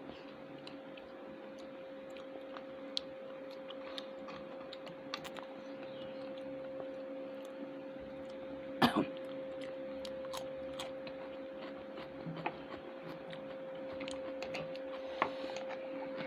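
Quiet eating sounds at a meal: scattered small clicks and taps of food and plates, with a sharper knock about nine seconds in, over a steady hum.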